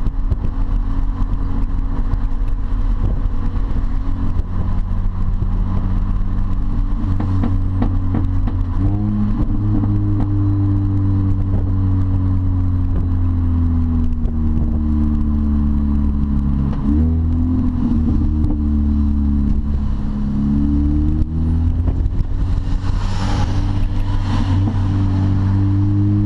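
Supercharged four-cylinder of an R53 Mini Cooper S with a loud custom straight-piped exhaust, heard from inside the cabin on the move. It drones steadily at cruise, its pitch rising and falling with the throttle, and climbs again near the end as the car pulls away in gear.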